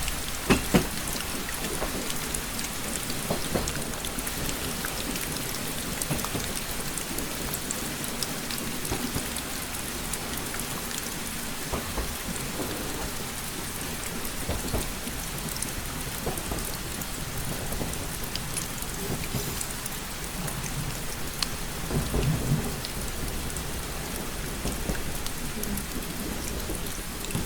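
Steady rain with many individual drops tapping on a surface. Two sharp knocks come just under a second in, and a low rumble swells briefly about 22 seconds in.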